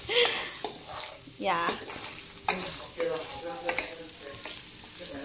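Sliced garlic and onion sizzling as they fry in a hot wok, stirred with scrapes against the metal.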